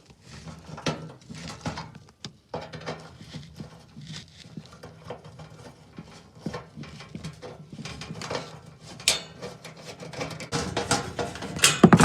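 Irregular clicks, taps and light metal clatter of a furnace's sheet-metal access panel being handled and taken off, with a louder burst of rattling near the end.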